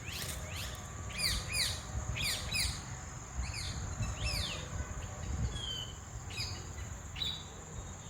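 Small birds chirping in quick, repeated downward-sliding notes, thickest in the first few seconds, over a steady high-pitched insect drone.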